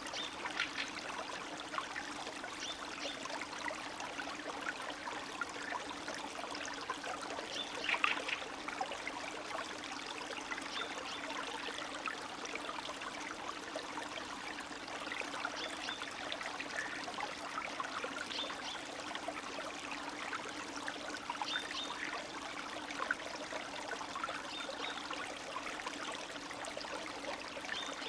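Small spring stream trickling and babbling over stones, with a steady run of little splashes and one brighter splash about eight seconds in.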